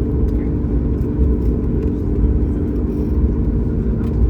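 Steady low rumble of a Boeing 737 MAX 8's engines and airflow heard from inside the passenger cabin, with a faint steady hum running through it.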